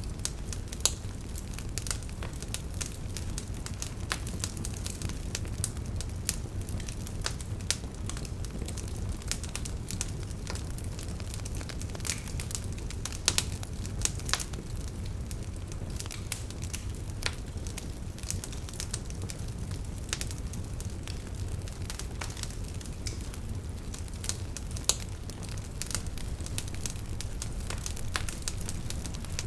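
Wood fire burning steadily, with a low rumble and irregular crackles and snaps of burning logs, a few louder pops among them.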